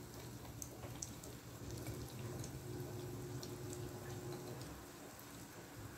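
Egg-coated bread slice frying in hot oil in a nonstick pan: a faint sizzle with scattered small pops and crackles, over a low steady hum.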